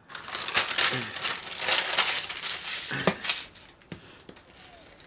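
Paper crinkling and rustling as it is handled, loud and dense for about three seconds, then softer.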